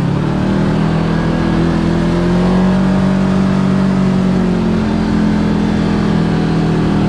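Side-by-side UTV engine running under way at road speed, its pitch climbing a little over the first few seconds and then holding steady.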